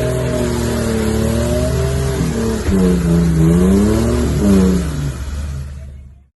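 Off-road vehicle engine revving up and down repeatedly, its pitch rising and falling, then fading out near the end.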